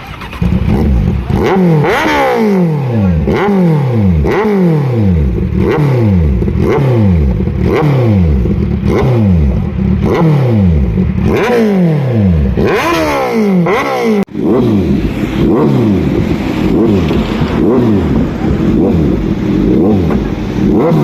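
Motorcycle engine revved over and over in quick throttle blips, each rev dropping back down in pitch, about one a second. It cuts off abruptly about two-thirds in, then carries on with faster, overlapping revs.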